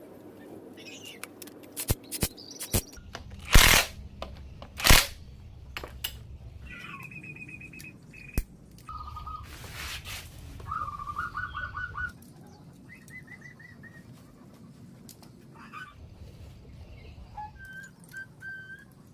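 A run of sharp knocks and clatters, two of them much louder than the rest, followed by bird chirps and short trilled whistles at several different pitches.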